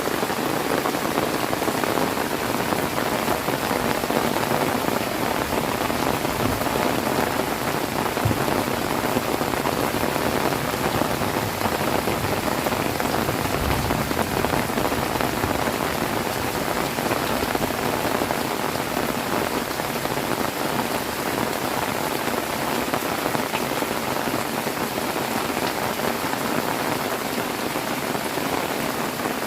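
Heavy rain falling steadily on surfaces, a dense, even hiss with no break.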